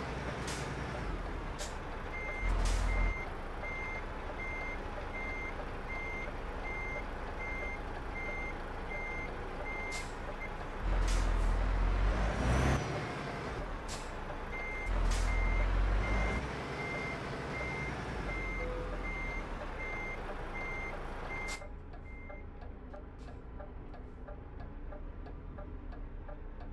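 Truck reversing alarm beeping about twice a second in two runs, over the truck's diesel engine running, which rises briefly three times as the truck is manoeuvred. There is a short hiss in the middle, typical of the air brakes.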